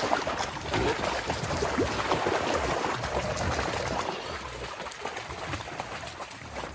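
Wet mud and water sloshing and splashing in a muddy hog trap area, with small crackles throughout; louder for the first four seconds, then quieter.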